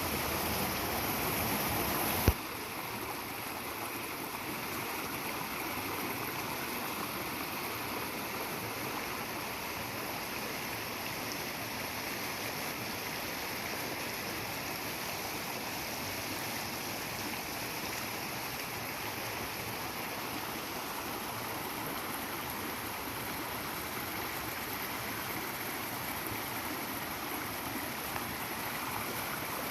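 Steady rushing of a flowing stream, with one sharp click about two seconds in, after which the water is a little quieter.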